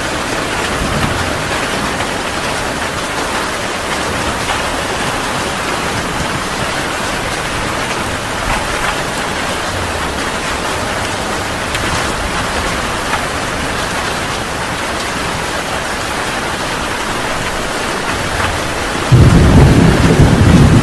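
Heavy rain pouring steadily, then a loud, low clap of thunder that breaks in near the end and keeps rumbling.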